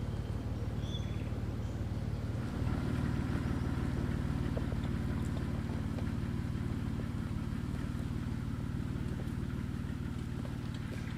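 Jeep Wrangler JK's engine running steadily, its low note shifting about two and a half seconds in.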